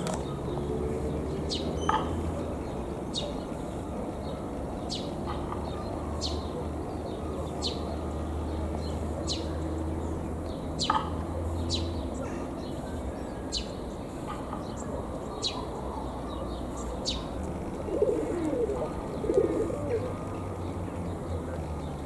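A bird calling over and over with short, sharp chirps that fall in pitch, about one every second and a half, over a steady low hum. Low wavering cooing comes in near the end.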